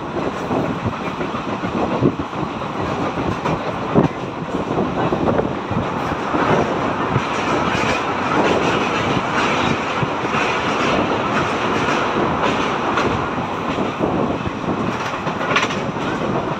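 Moving Indian Railways express coach: wheels clattering over the rail joints with a steady rumble and rush of air at the open window. The running noise is louder for several seconds in the middle as the coach crosses a river bridge.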